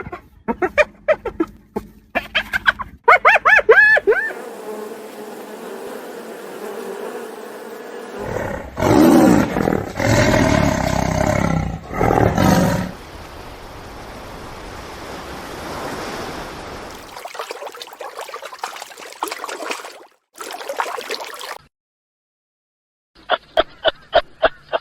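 Three loud, deep roars from a large animal in the middle, between quick runs of short, sharp animal calls near the start and end.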